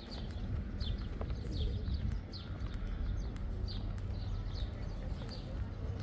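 Small birds chirping, short quick falling chirps repeated two or three times a second, over a steady low rumble.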